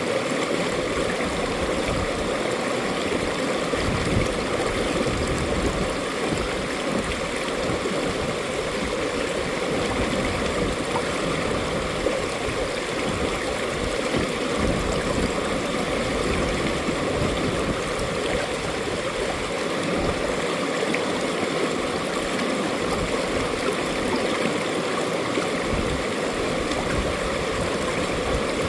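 Mountain valley stream flowing, a steady rush of water with a gurgling, fluctuating low rumble.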